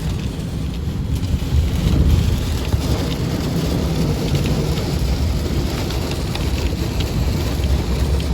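Heavy rain beating on a car as it drives, with a steady low rumble of road and wind noise underneath and scattered sharp ticks of drops striking the body and glass.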